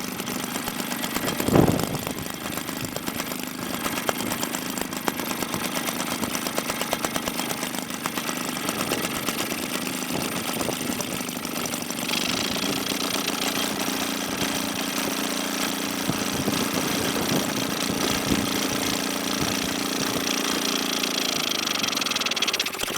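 Maytag 72D two-cylinder two-stroke washing-machine engine running steadily on its carburetor, with a single thump about a second and a half in. About halfway through a hiss joins the running sound, and the engine's pitch dips briefly near the end.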